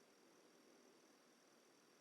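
Near silence: faint dusk forest ambience with a thin, steady, high-pitched insect drone.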